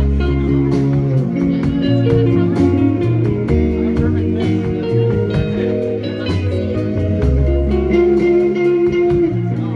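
A rock band playing live, with guitars and bass over a steady drum beat.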